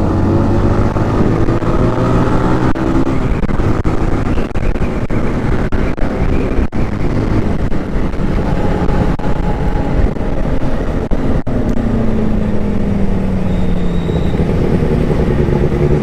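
Benelli motorcycle engine running under way, its pitch shifting up and down with the throttle and falling slowly near the end as it eases off.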